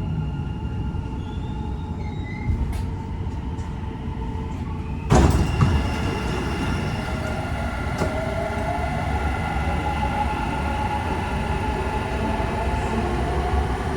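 Inside a Dubai Metro train car: a steady rumble and hum as the train comes to rest at a station, with a faint rising squeal early on. About five seconds in, a sudden loud rush as the sliding doors open, followed by steady station and car noise.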